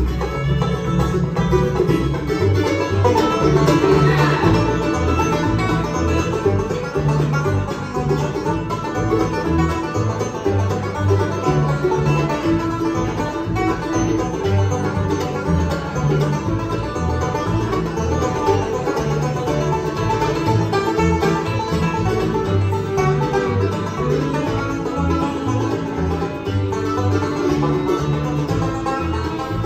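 Bluegrass band playing live, with banjo picking out in front over guitar and a steady low bass line.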